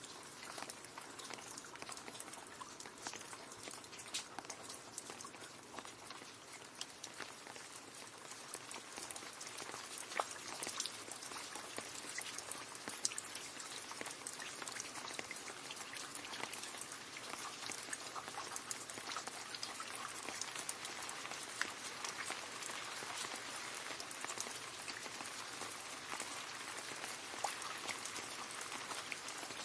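Rain falling steadily into a puddle: a dense hiss of splashing drops, with many sharp individual drop ticks. It gets a little heavier about eight seconds in.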